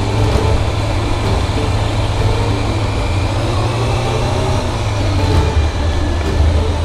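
Sport motorcycle engine running steadily at low riding speed, a deep even drone.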